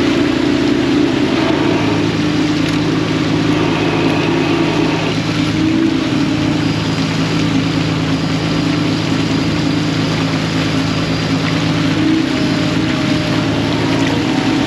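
Fishing boat's engine running steadily under way, with a faint wash of water, its pitch shifting slightly about six and twelve seconds in.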